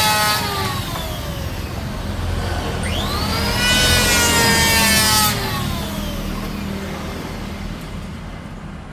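An electric power tool's motor winds down, is switched on again about three seconds in, rising quickly to speed, and runs briefly with the hiss of cutting wood before it is released and coasts down.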